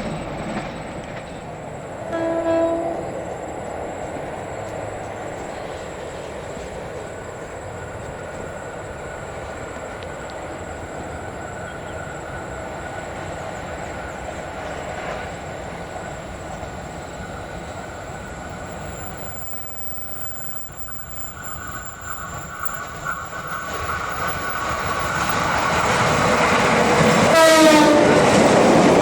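Train running on the track with a steady rumble, a short horn blast about two seconds in. Near the end a train grows louder as it comes closer and gives another short horn blast.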